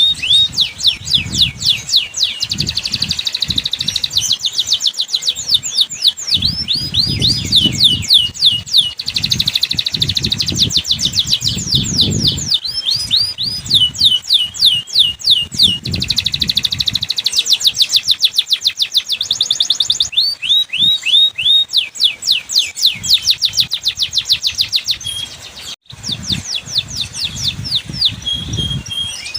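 Domestic canary singing continuously in long rapid trills of repeated down-sweeping notes, switching from one roll to the next every few seconds, with a low rumble underneath. It is a canary lure song, played to coax canaries that are slow to sing.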